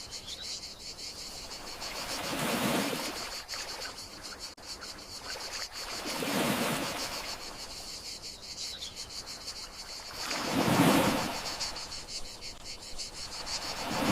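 Gentle sea waves washing in, one swell about every four seconds, over a steady high chirring of crickets.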